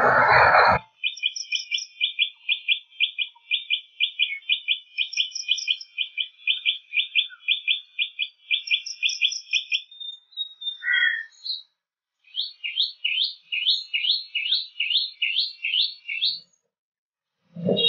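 A songbird singing: a long run of short chirping notes repeated evenly about three times a second, with a few higher notes now and then, then after a short pause a quicker series of rising notes. A brief burst of noise fills the first second.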